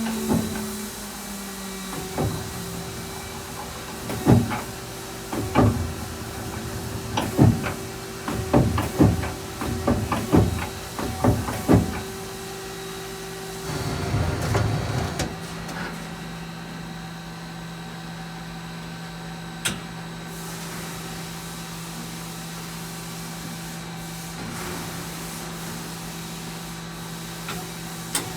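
Mazak Quick Turn QT-300 CNC lathe running: a series of about a dozen sharp mechanical clunks over roughly ten seconds over a steady machine hum, then a short surge of noise and a steady lower-pitched hum.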